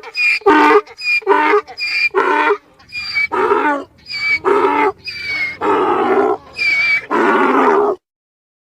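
Donkey braying, a run of about six hee-haws: short high wheezing intakes alternate with longer, lower blasts. The blasts grow longer toward the end before the bray stops abruptly.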